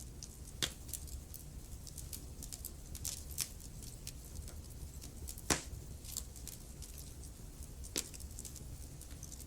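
Wood fire burning in a fireplace: a steady run of small crackles over a low rumble, with three louder pops, one about half a second in, one in the middle and one near the end.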